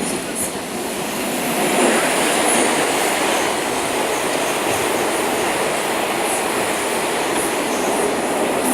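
Moscow metro train running between stations, heard from inside the carriage: a steady rumble of wheels on rail that grows louder about two seconds in, with a faint high squeal from the wheels.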